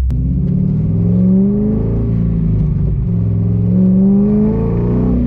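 A cammed car's engine heard from inside the cabin, accelerating hard: its pitch climbs, falls at an upshift about a second and a half in, climbs again and falls at a second upshift near the end.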